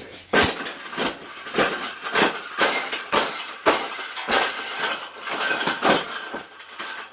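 Wire bird cage being bent and folded by hand: the metal bars rattle and clank, with about a dozen sharp knocks over six seconds.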